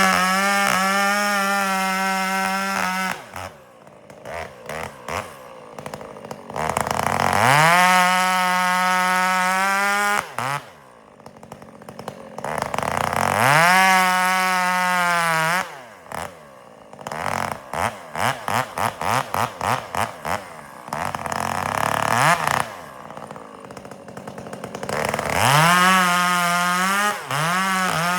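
Chainsaw bucking firewood: the engine revs up to full throttle four times, holding a high steady pitch for a few seconds each time, and drops back to a rough idle between.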